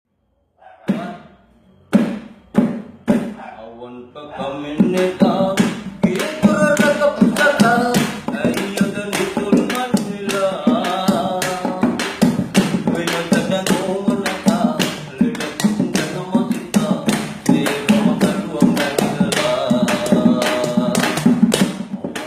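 A few sharp knocks, then from about four seconds in a voice singing a song over a steady percussive beat.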